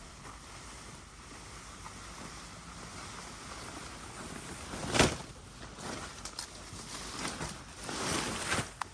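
Steady rain hiss, with one sharp knock about five seconds in and a few smaller knocks and a swell of noise near the end.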